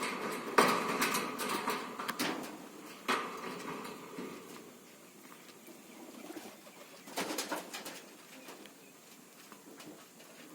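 Parrot making soft, low cooing calls mixed with a few sharp clicks. It is loudest in the first three seconds, goes quiet, then comes again about seven seconds in.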